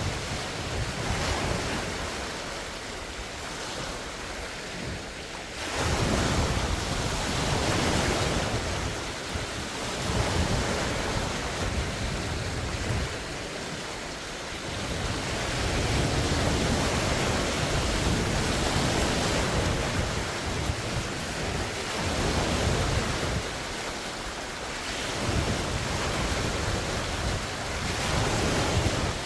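Large wind-driven lake waves washing and breaking on the shore, swelling and easing every few seconds in a steady rush, with wind buffeting the phone's microphone.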